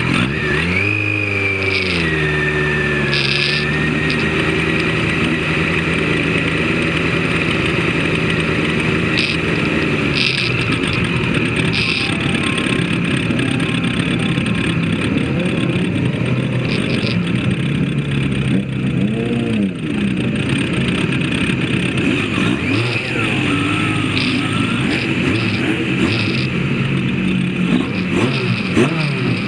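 Engine of a vehicle running hard on a race circuit. It revs up steeply at the start, holds a steady high note, then drops and climbs again twice later on as it shifts and changes speed.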